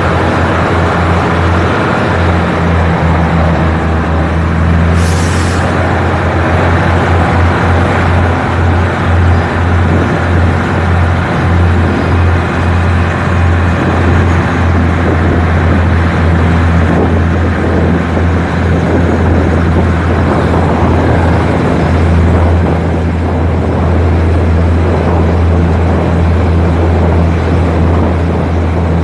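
A moving vehicle's steady low running drone, with a short hiss about five seconds in.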